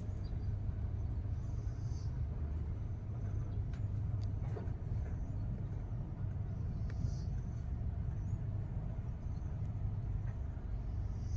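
Hyundai ix35 engine running at idle with a steady low rumble and a few faint ticks.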